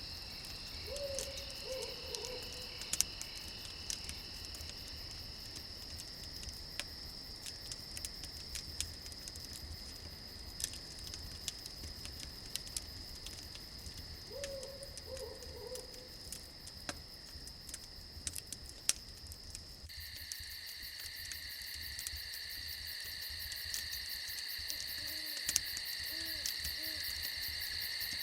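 An owl hooting a short quavering series twice, about a second in and again about fourteen seconds in, with fainter hoots near the end, over steadily chirring crickets. Scattered sharp crackles from a campfire run beneath.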